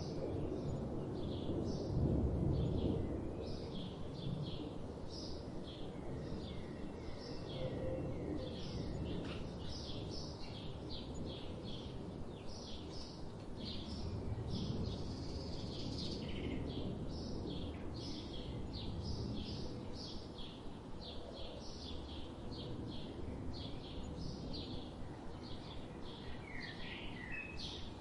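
Small birds chirping in a rapid run of short, high chirps, about two or three a second, over a steady low background rumble.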